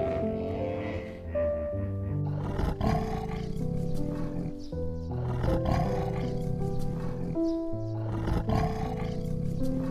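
A big cat calling several times, rough noisy calls over background music with held notes.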